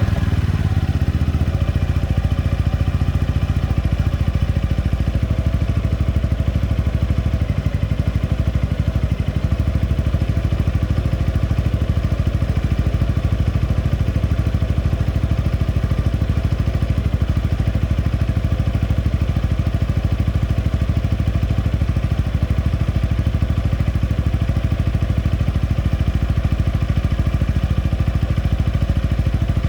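Yamaha XMAX 300 scooter's single-cylinder four-stroke engine idling steadily through a replica Akrapovič aftermarket exhaust, its revs settling back down right at the start.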